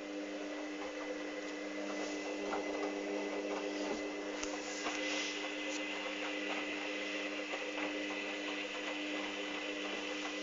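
Hoover Dynamic DYN 8144 D washing machine in its pre-wash, its drum motor humming steadily as it turns the drum of wet towels, with water swishing and small clicks, for about ten seconds.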